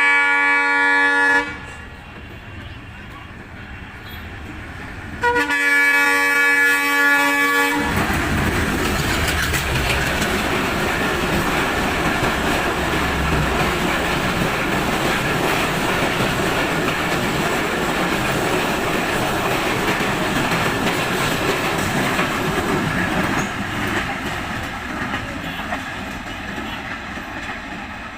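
Rupsha Express diesel locomotive's horn sounding in two blasts: one ending about a second in, a second from about five to eight seconds. Then the train runs past with a steady rumble and the clickety-clack of wheels over rail joints, easing off near the end.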